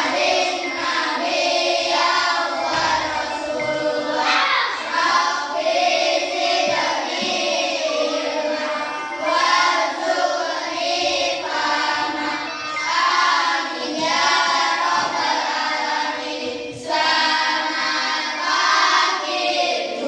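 Group of children singing together, many voices on one melody, continuing without a break.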